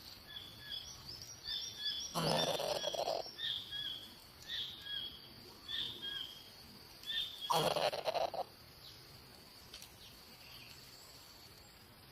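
A bird chirping in a rapid series of short high notes over a steady high insect drone. Two louder noisy bursts, each about a second long, come about two seconds in and again about seven and a half seconds in.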